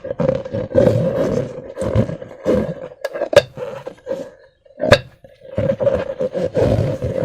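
Slime being squeezed and worked by hand, giving a dense run of squelching and rubbing with a steady hum under it. Two sharp clicks stand out, about three and a half seconds and five seconds in, with a short lull between them.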